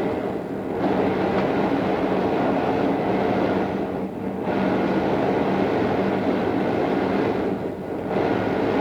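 Odakyu 2600 series electric train running: a steady rolling and running noise with a few steady tones through it, its higher part briefly dropping away three times, about every three and a half seconds. Heard on an old cassette-tape recording.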